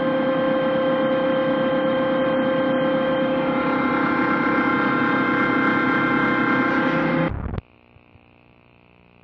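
Loud steady electronic drone of many held tones over a hiss, presented as the strange sound emitted by a broadcast transmitter. It cuts off suddenly about seven seconds in, leaving a faint high steady tone and a low hum.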